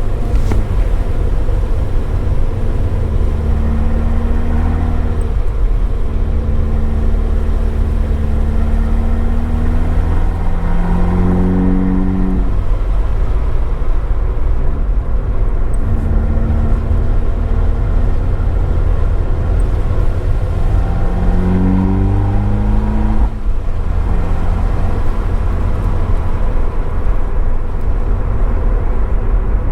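Abarth 595's turbocharged four-cylinder engine and Akrapovič exhaust under way on track, heard from a microphone in the boot. The engine holds steady revs for several seconds at a time, climbs twice, and drops sharply after each climb, about halfway through and again near the end. Road and rain noise rumbles low underneath throughout.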